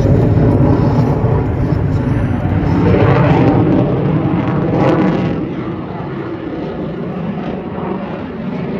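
Fixed-wing aircraft engine noise as a plane flies past, swelling to its loudest about three to five seconds in, then easing off.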